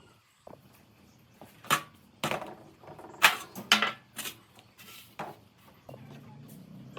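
Irregular knocks and clatters of hard objects being handled, about six over a few seconds, followed near the end by a faint low steady hum.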